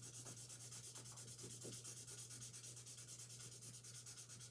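Faint, steady scratchy rubbing of a highlighter marker being drawn over a word on paper, with a low hum underneath.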